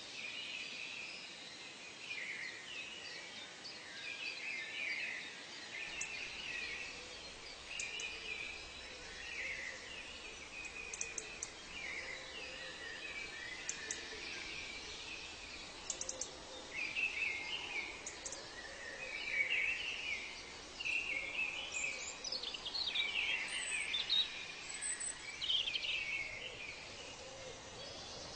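A chorus of wild birds chirping and calling over a steady background hiss. The calls come thick and fast, and grow busier and louder in the second half.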